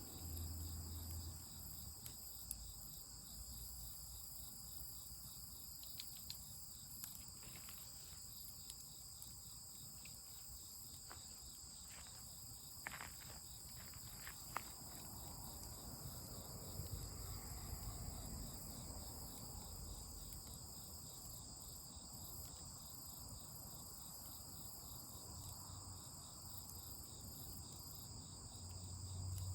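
Crickets and other insects chirping steadily in several high pitches at once, with a few faint clicks in the middle.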